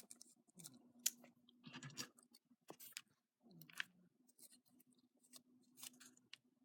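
Faint scattered clicks, taps and crinkles from hands handling small paper craft pieces, with a faint steady low hum underneath.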